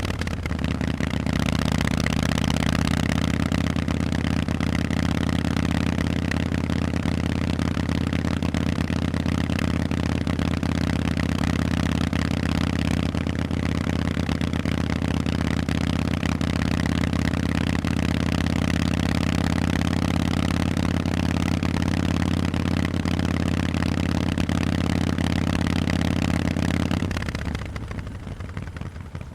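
Harley-Davidson Forty-Eight's air-cooled V-twin through Vance & Hines exhausts, running steadily at an even engine speed. About two seconds before the end the exhaust note drops away sharply, as with the throttle closing.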